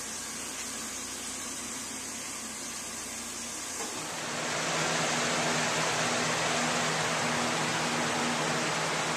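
Steady machine noise, a whooshing hiss with a low hum like a running fan or motor, that grows louder about four seconds in and then holds steady.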